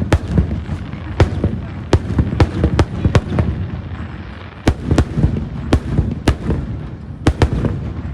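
Fireworks shells bursting in quick, irregular succession: about a dozen sharp bangs over a low rumble, with a short lull near the middle.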